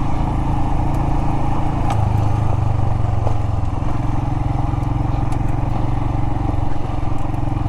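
Royal Enfield Himalayan's single-cylinder engine running steadily under way off-road, its note shifting slightly about two seconds in, with scattered clicks of rocks and gravel under the tyres.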